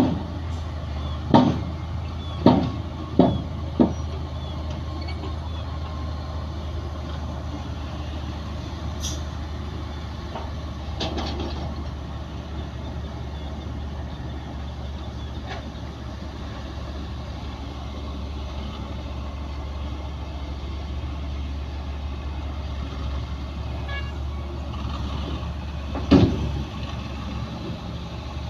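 Heavy diesel earthmoving machinery running with a steady low rumble. Sharp knocks come several times in the first four seconds and once more near the end.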